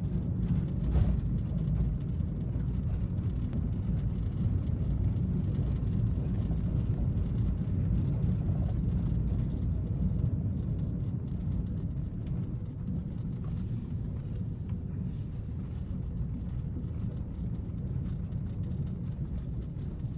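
Steady low rumble of a vehicle driving, with no pitched engine note standing out.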